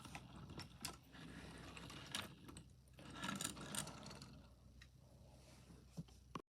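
Irregular small clicks and rattles, a sharper click about two seconds in and a busier cluster around three to four seconds in, over a faint low hum.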